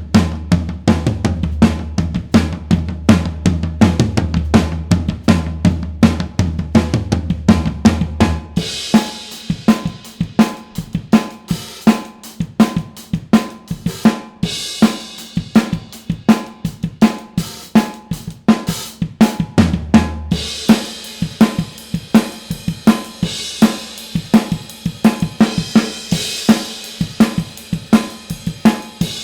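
Acoustic drum kit played in a steady, busy groove through a set of close drum microphones, with kick, snare and toms. A low boom rings under the first part, and cymbals and hi-hat come in brighter about nine seconds in.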